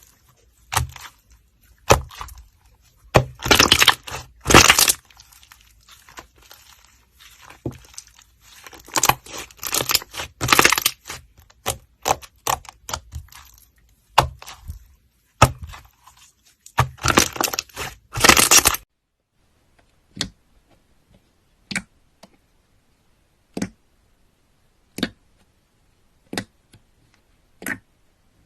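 Slime being squeezed and worked, giving crackling, crunchy bursts, then single sharp pops about once every second or so near the end.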